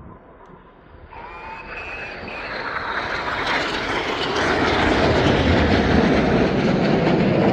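BAE Hawk T1 jets making a low, fast pass. A faint turbine whine appears about a second in, then the jet noise builds steadily into a loud rush that is at its loudest near the end.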